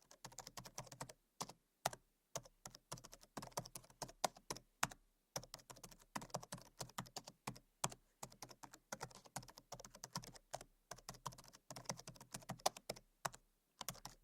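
Campfire crackling: faint, irregular sharp pops and snaps coming thick and fast, with no steady rhythm.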